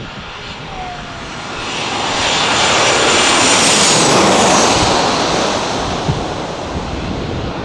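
An aircraft passing low, its engine noise swelling to a peak about four seconds in and then fading off, with a high whine near the peak that drops slightly in pitch.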